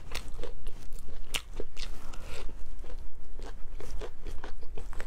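Close-miked chewing and biting of pan-fried pork buns (shengjian bao): irregular, crisp crunches and wet mouth sounds, many small crackles a second.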